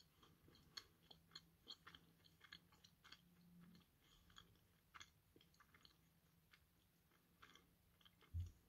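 Faint chewing of a mouthful of chilli cherry ganache chocolate: soft, irregular wet mouth clicks and smacks. A single low thump sounds near the end.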